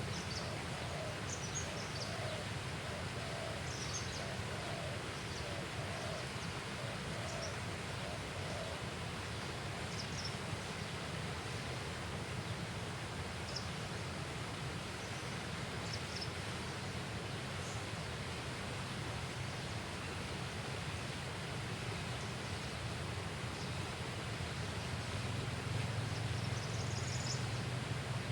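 Steady outdoor background noise with short, high bird chirps every few seconds. For the first several seconds a lower call repeats about once a second.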